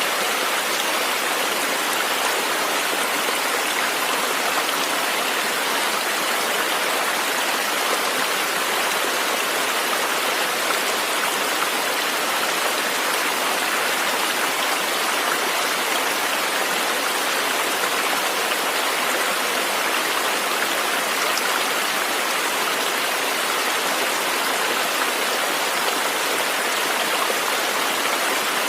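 A river or stream flowing: a steady, even rush of running water with no breaks or separate events.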